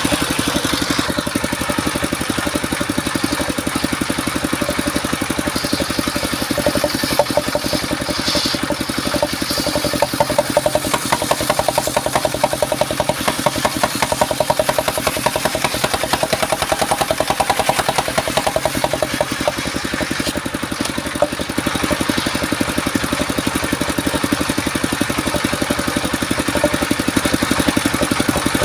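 The engine of a portable circular-saw sawmill running steadily with a fast, even pulse, while the saw works through mahogany. A higher tone rises over it through the middle of the stretch, then fades.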